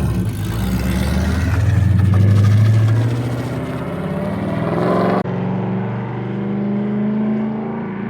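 S197 Ford Mustang drift car's engine and exhaust pulling hard, pitch climbing about four to five seconds in. The sound breaks off abruptly just after five seconds in, and the engine carries on at a steadier note.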